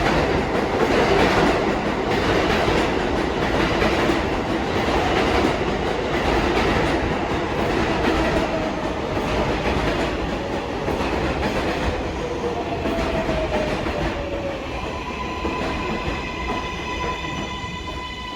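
R188 subway train pulling into an elevated station: wheels rumbling and clattering over the rail joints. In the second half the motors whine, gliding down in pitch as the train brakes, and the rumble eases off as it slows.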